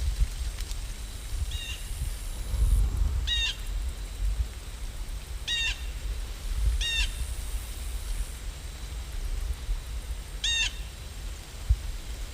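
A bird gives five short, clear calls with ringing overtones, spaced a second or two apart. Under them runs a steady rain ambience with a low rumble and a faint hiss.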